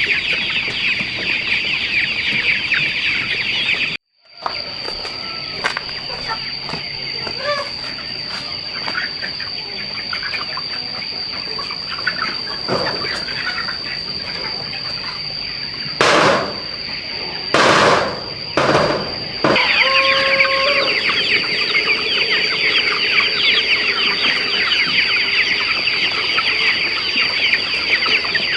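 A flock of chickens clucking and calling, with a dense chatter of many high, short calls and a steady high tone running under it. The sound cuts out abruptly about four seconds in, and three short, loud bursts of noise come about two-thirds of the way through.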